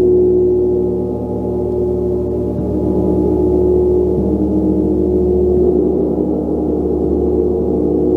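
Gong ringing in a deep, sustained wash of overlapping tones, struck again about every second and a half so that the sound swells and shifts without dying away.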